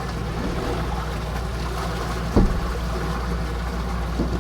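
Boat's motor running steadily as the boat moves along, with one short thump about two and a half seconds in.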